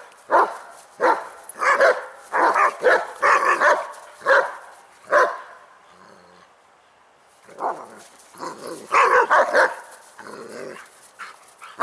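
Dogs barking in a scuffle, a young Beagle being reprimanded by two German Shepherds: rapid repeated barks, a pause of about two seconds in the middle, then another burst of barking, with some growling.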